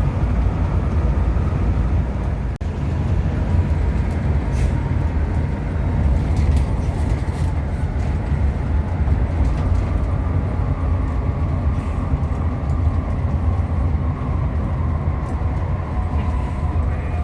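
Steady low rumble of a Hino RM 280 coach under way, engine and road noise together, with a brief dip in level about two and a half seconds in.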